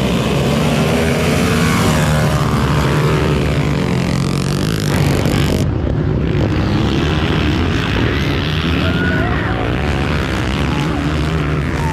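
Motocross bike engines running and revving, rising and falling in pitch as the bikes race.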